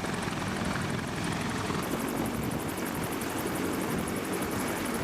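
Heavy military helicopter running: rotor blades beating in a fast, even rhythm over steady turbine and rotor noise, growing brighter and hissier about two seconds in.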